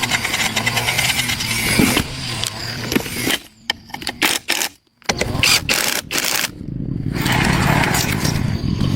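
An engine running steadily. In the middle it is broken by several abrupt drop-outs and sharp clicks and knocks, then it runs on.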